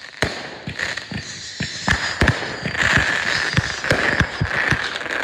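Fireworks going off in a rapid, irregular string of bangs and pops, several a second, with a steady hiss building underneath from about a second and a half in.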